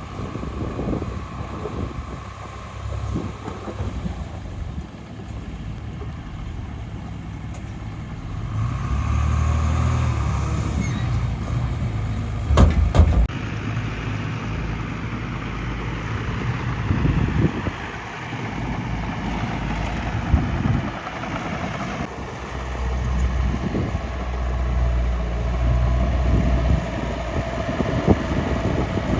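Miniature dump truck and bulldozer at work, a steady engine-like hum that swells twice for a few seconds at a time. A sharp knock comes about halfway through.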